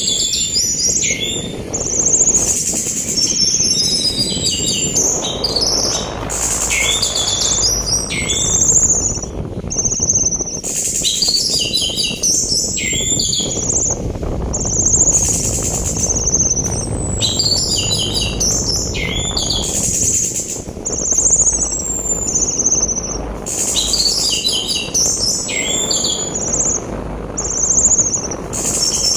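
Orange-headed thrush (anis merah) singing short phrases of rapid chirps and sliding whistles, repeated every few seconds, over a steady rush of sea wind.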